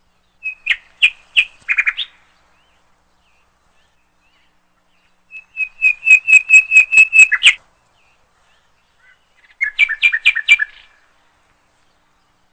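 A bird singing three short phrases of rapid, clear repeated notes, several notes a second, with pauses of a few seconds between phrases.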